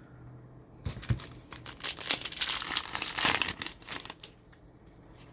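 Foil trading card pack wrapper being torn open and crinkled by hand, a crackly rustle lasting about three seconds that dies away near the end.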